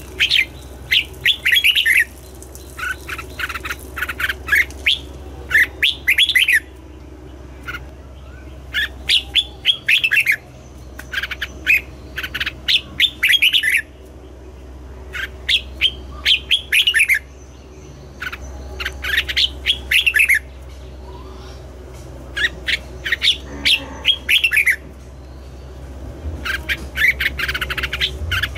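Red-whiskered bulbul singing, with repeated short phrases of quick warbled notes broken by pauses of a second or two, over a steady low hum.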